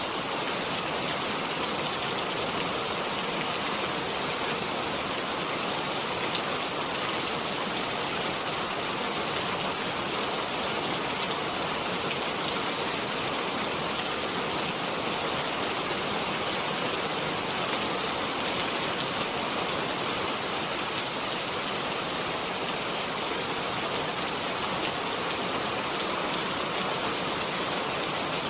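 Steady rain falling, a dense even hiss with many fine drop ticks on a hard surface.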